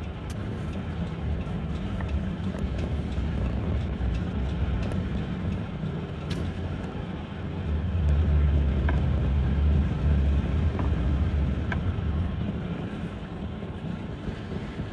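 Vehicle driving: a steady low engine and road rumble that swells louder for a few seconds in the middle, with a few faint ticks.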